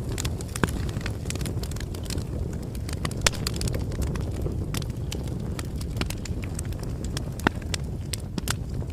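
Bonfire crackling: a steady low rumble of burning wood with irregular sharp pops and snaps, the loudest about three seconds in and again about seven and a half seconds in.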